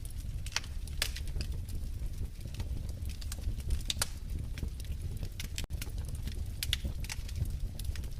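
Wood fire in a fireplace crackling: irregular sharp pops and snaps over a steady low rumble of burning. The sound drops out for an instant a little past halfway.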